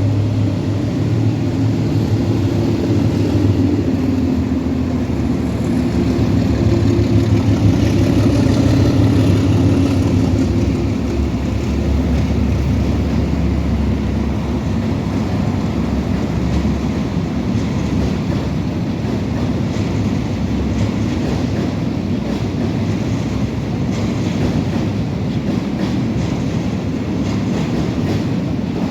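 Vietnam Railways LP5 push-pull passenger train running by, a steady rumble of its diesel locomotive and coaches. A low engine drone is strongest in the first ten seconds, loudest about eight to ten seconds in, then gives way to a more even rolling noise.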